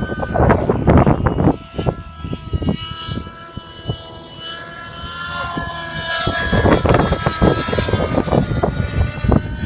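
A 600-size nitro radio-controlled helicopter in flight: its glow engine and rotors give a pitched whine that drifts in pitch. The whine fades in the middle and grows louder again in the second half. Wind gusts buffet the microphone.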